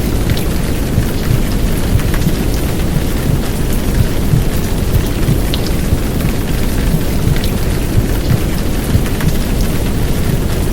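Heavy downpour rain: a steady, dense hiss with scattered sharp drop ticks over a deep, churning low rumble, mixed with recorded womb sound.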